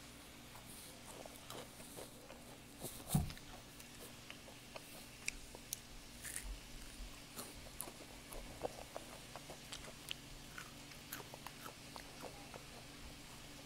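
A child biting and chewing a Rice Krispie treat: soft scattered crunches and crackles of the crisped rice, with one louder thump about three seconds in.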